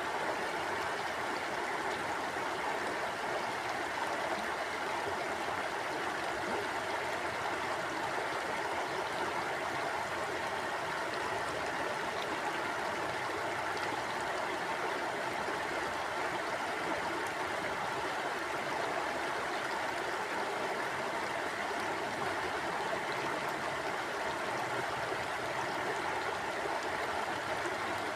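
Stream water flowing and burbling over rocks, a steady, even rush with no breaks.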